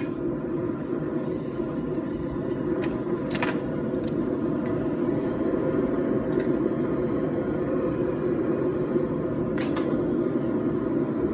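Forge running with a steady low roar while the steel heats, with a few faint metallic clinks.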